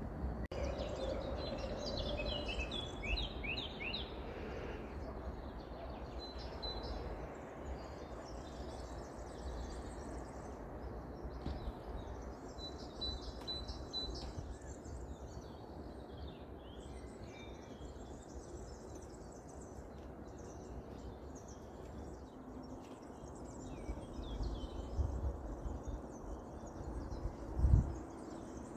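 Songbirds chirping and singing in several spells of short, quick notes over a steady low outdoor rumble, with a single dull thump near the end.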